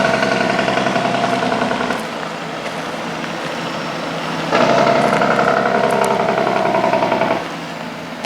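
Heavy truck's diesel engine with a loud, fast-pulsing note that cuts off abruptly about two seconds in. It comes back just as suddenly halfway through and cuts off again near the end, leaving a lower rumble between.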